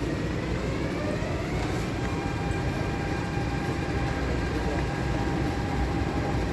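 Electric MTR train's traction motors whining as it pulls out of the station. The whine rises in pitch over the first two seconds and then holds steady over a rumble of wheels on rails.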